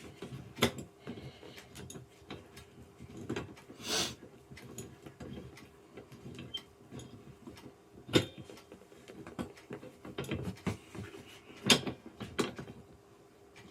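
Scattered metal clicks and knocks of gaming-chair parts and bolts being handled and worked into place, with three sharper knocks and a short scraping rustle about four seconds in.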